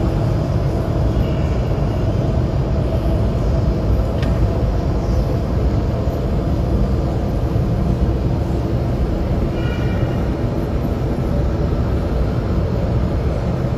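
Jet engines of a narrowbody airliner running steadily, a loud even rumble with most of its weight low down.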